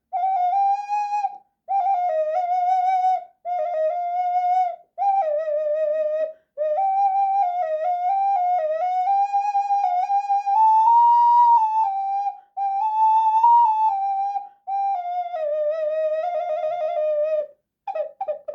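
Bird-shaped ocarina playing a slow solo melody in short phrases with brief breath gaps, the notes held with a slight waver. Near the end the notes turn quick and choppy.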